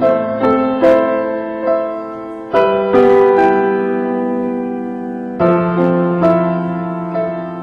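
Slow solo piano music: sustained chords and single notes struck every second or so, each ringing and fading.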